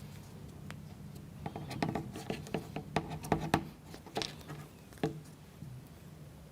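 Small plywood model-kit parts handled and fitted together by hand: a quick run of light wooden clicks and taps that peaks about halfway through and dies away after about five seconds, over a low steady hum.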